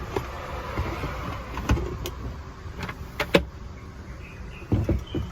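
Car bed platform boards being handled and clipped together while packing: scattered knocks and clicks, with a cluster of louder knocks near the end.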